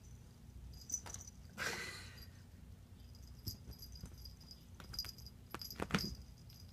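Kittens scampering about: scattered light taps and clicks of small paws and claws on the floor, with a short breathy rush of noise about two seconds in and a quick cluster of louder taps near the end.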